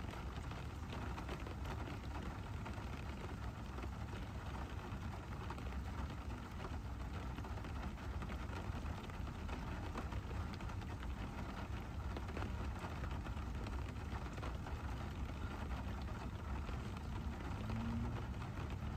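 Steady rain falling on a driving car, many small drop ticks over the car's low, even road rumble.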